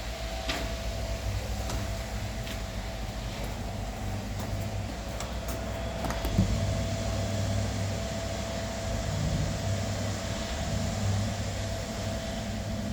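A machine running steadily with a low hum and a thin steady whine, broken by a few light clicks and one louder knock about six seconds in.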